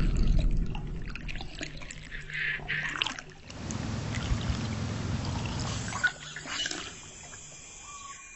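Water trickling and splashing, an uneven noisy flow with a low rumble that fades after about six seconds.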